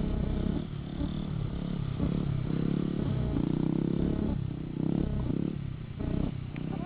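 Motorcycle engine running, its pitch rising and falling again and again as it is revved.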